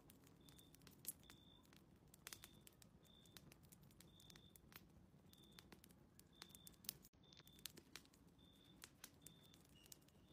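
Faint fireplace crackle: scattered sharp pops and clicks, with a short high beep-like tone repeating about once a second.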